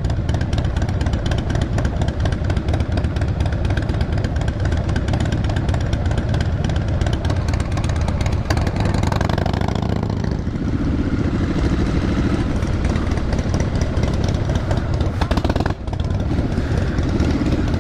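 Motorcycle engine running steadily with a dense low rumble, dipping briefly about sixteen seconds in.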